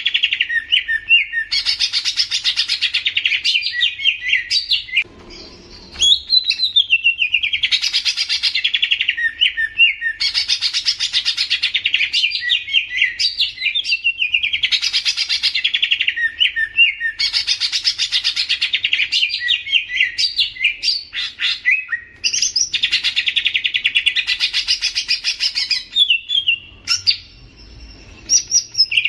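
Leafbird (cucak ijo) singing: long, rapid, chattering song phrases of two to three seconds each, repeated over and over with short pauses, and a longer break about five seconds in.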